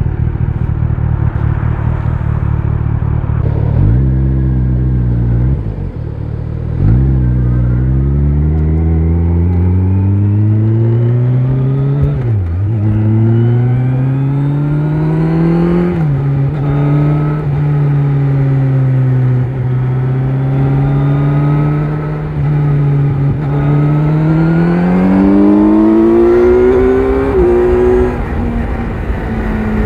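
Kawasaki Z900 inline-four engine through an Akrapovic exhaust, heard from the rider's seat, accelerating through the gears: the engine note climbs, drops sharply at each upshift, holds steady at a cruise for several seconds, then climbs again near the end.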